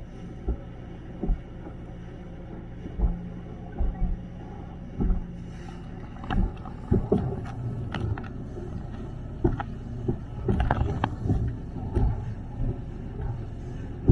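Boat under way: a steady low engine hum with irregular short thumps, which come much more often from about six seconds in.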